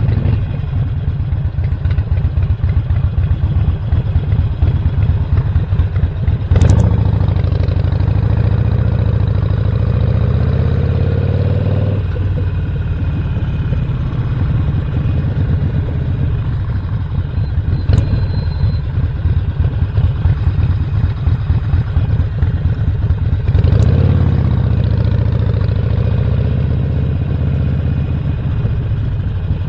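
2017 Harley-Davidson Roadster's 1200 cc air-cooled V-twin with a Stage 1 upgrade, running under way at a steady lope. It pulls harder with a rising note twice, each time after a sharp click, near 7 s and near 24 s.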